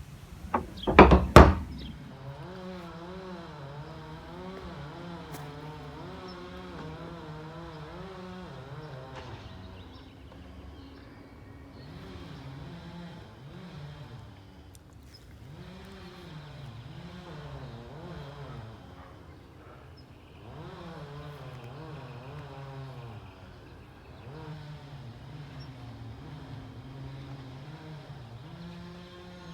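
Two loud thumps about a second in, then a garbage truck's engine running with its pitch rising and falling over and over.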